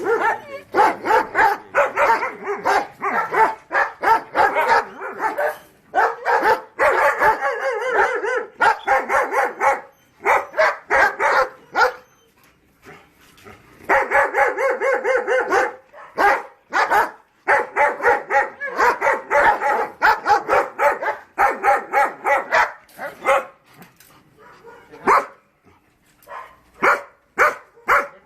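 German Shepherd dogs barking over and over in quick runs, with a short lull about twelve seconds in and another near the end.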